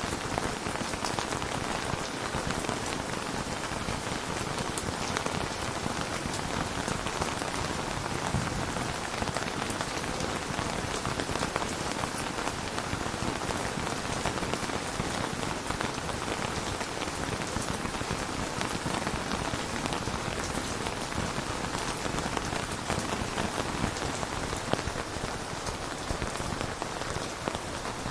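Steady rain falling, a dense even patter of many drops with no thunder.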